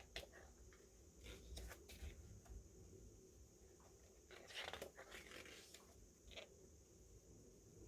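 Quiet handling noises of an unboxing: soft rustles and light clicks and taps of paper and plastic packaging being moved, in a few scattered clusters.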